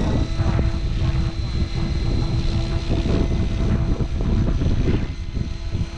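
TB60 radio-controlled helicopter in flight: a steady whine from its motor and rotor, partly buried under heavy wind buffeting on the microphone.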